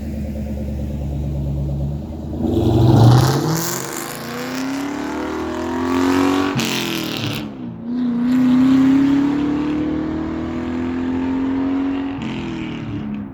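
A Ford Mustang Mach 1's 4.6-litre V8, breathing through an SLP Loudmouth 1 catback with an X-pipe, runs low and steady and then launches with a loud burst. It accelerates hard, its pitch climbing in each gear, with two upshifts that break the note.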